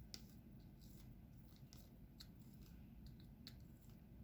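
Near silence with a few faint, sparse clicks and taps of diamond painting: small resin drills being picked up and pressed onto the canvas with an applicator pen.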